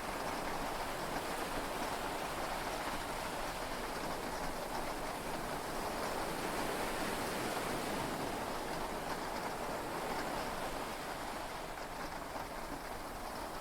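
Steady heavy rain falling on a yacht's cabin, heard from inside the cabin, easing slightly near the end.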